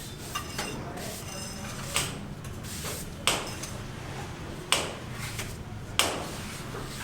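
Four sharp knocks, about a second and a half apart, with faint clinks between them over a low steady hum.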